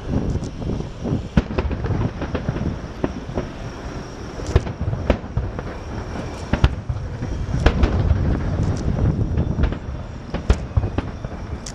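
Aerial fireworks going off in quick irregular succession: sharp cracks and bangs over a continuous low rumble of bursting shells.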